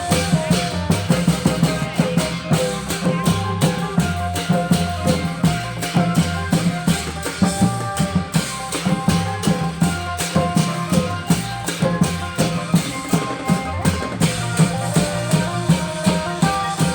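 Klong yao long-drum band playing Isan festival music: drums keep a steady beat, with a shaker or rattle, stepping bass notes and a melody line over them.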